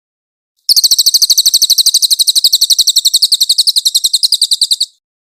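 Cililin bird singing a rapid, high-pitched trill of about eleven notes a second. It starts about a second in and stops abruptly after some four seconds.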